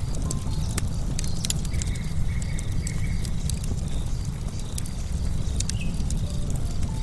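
Wood fire crackling, with irregular sharp pops from the burning logs over a steady low rumble of the flames.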